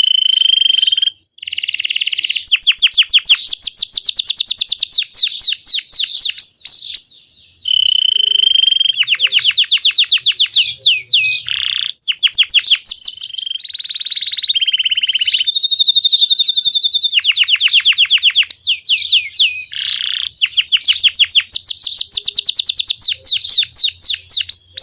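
Belgian canary singing a long, loud song of fast trills of rapidly repeated notes, alternating with short held whistled tones, broken by a few brief pauses.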